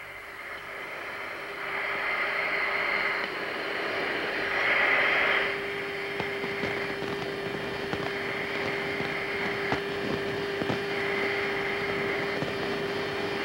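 Aircraft radio and intercom channel noise between transmissions: a steady electrical hum under a hiss that swells for a second or so at a time, several times over, with faint clicks.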